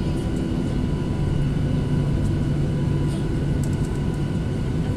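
Steady cabin noise inside a Boeing 737-800: a low rumble with a few constant whining tones from its CFM56 engines and airflow, and a few faint clicks about three and a half seconds in.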